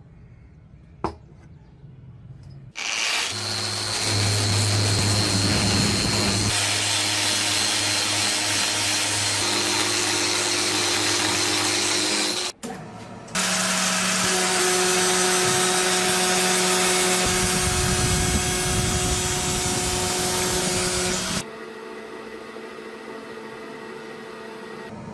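Electric power tool running while metal parts are polished: a steady motor hum with loud grinding noise. It runs in two long stretches with a short break between them, then drops to a quieter steady running sound near the end.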